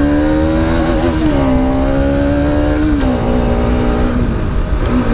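Bajaj Pulsar NS200's single-cylinder engine running under way on the motorcycle. Its pitch rises in the first second, holds, drops about three seconds in and steps back up near the end, over a low rumble.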